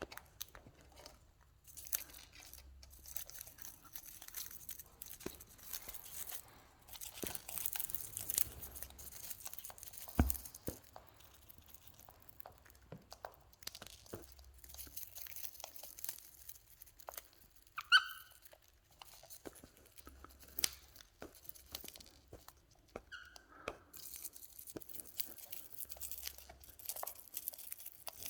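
Cockatiels cracking and nibbling grains and seeds: irregular small crunches and clicks of beaks on husks, with bits of rustling. Twice a short squeak cuts through, the first one loud, about two-thirds of the way in.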